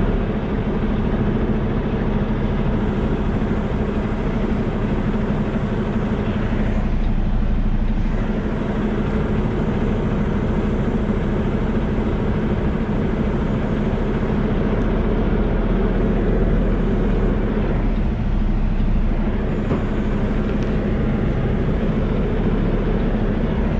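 Kenworth T680 semi truck's diesel engine running steadily with an even hum as the truck moves slowly.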